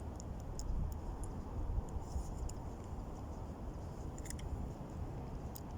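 Low rumble of strong wind on the microphone, with a few faint, scattered small clicks from hands handling a small fish and hook while unhooking it.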